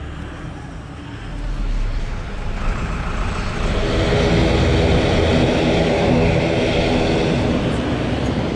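Aircraft engines running up in the cabin, a broad mechanical sound with a steady hum that builds about a second in and grows much louder from about four seconds in.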